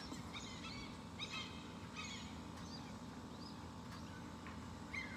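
Birds calling: short, arched chirping notes about once a second over a steady low hum.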